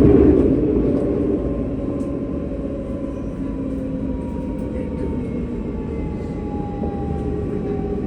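Tram running on its rails: a steady low rumble and rattle, loudest at the start, with a thin motor whine that falls slowly in pitch.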